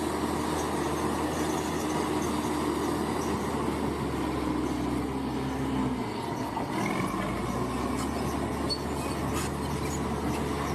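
Bulldozer's diesel engine running steadily at work, its note changing about six seconds in.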